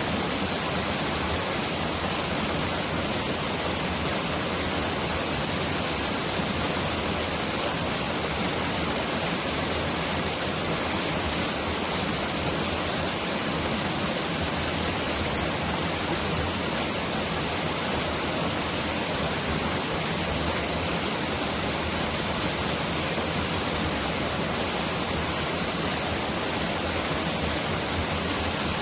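Mountain valley stream running in a steady, unbroken rush of water that sounds like heavy rain pouring down.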